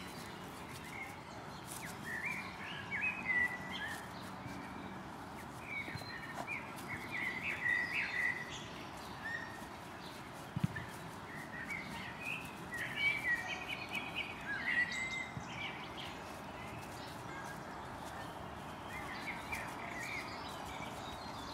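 Small birds singing in short chirping phrases that come and go over a steady outdoor hiss, with a single sharp click about halfway through.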